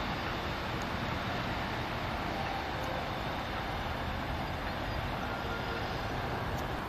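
Steady rumble of a diesel multiple-unit train some way off down the line, an even noise without distinct knocks or horn.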